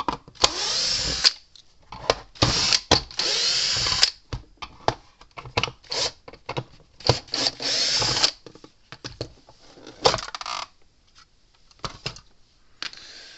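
Power drill/driver running in short bursts of about a second, several times over, backing screws out to open an electric fence charger's case, with small clicks and knocks between the bursts.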